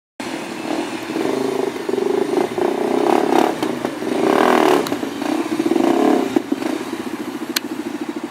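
Enduro motorcycle engine running and revving in several surges, then settling to an even throb near the end, with a sharp click shortly before.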